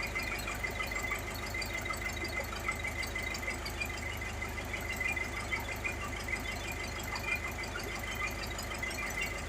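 Fishing boat's engine running steadily, with a rapid low pulse and a steady high tone over it.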